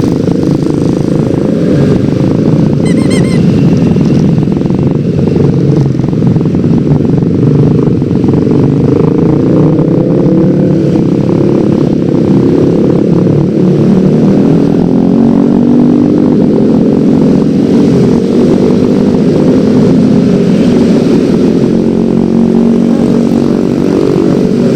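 Yamaha X-Ride 113cc scooter's single-cylinder engine running on the move, with steady wind noise on the microphone. The engine's pitch rises and falls with the throttle in the second half. A brief high beep comes about three seconds in.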